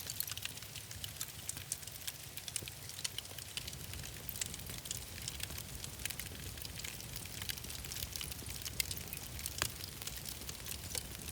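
Wood fire crackling in a fireplace: scattered sharp pops and snaps over a steady hiss and low rumble.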